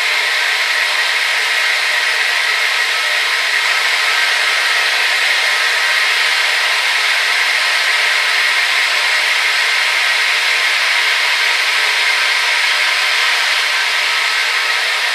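Hair dryer running steadily: an even rushing whoosh of blown air with a faint motor whine, strongest in the upper middle and without any low rumble.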